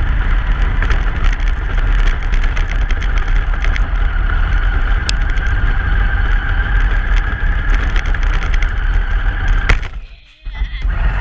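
Steady road noise from a moving truck, picked up by an action camera riding on it: a heavy low-end rumble of wind and motion with scattered clicks and knocks. The sound drops out sharply for about half a second near the end, then comes back.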